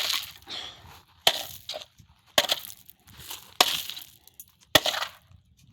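A ceiling fan being beaten with a wooden log: five hard blows a little over a second apart, each followed by crunching and rattling as the fan's parts crack and break.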